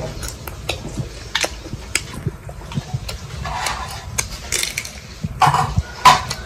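Close-miked chewing of crunchy fried sparrow, many short sharp crunching clicks. A few louder knocks or clatters come near the end.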